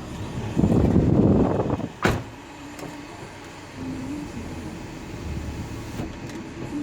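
A rough rustling noise for about a second, then one sharp thump about two seconds in, followed by a low steady car engine hum.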